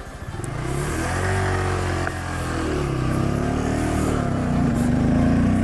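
Honda Grom's 125cc single-cylinder engine accelerating. The revs climb, ease off briefly about two seconds in, then climb again.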